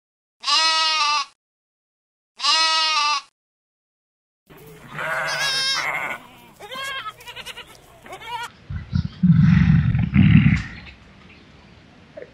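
Goat kids bleating. First come two identical short, high bleats about two seconds apart, then a run of shorter, varied bleats. A loud, low sound of about two seconds follows near the end.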